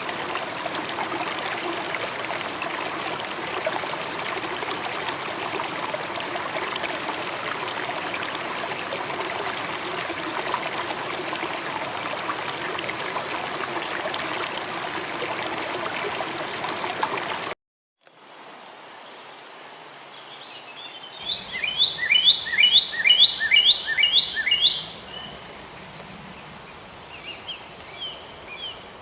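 A steady rushing noise like running water, cutting off abruptly about 17 seconds in. Then a songbird sings a quick run of about eight repeated down-slurred high notes, the loudest sound here, followed by a few shorter calls near the end.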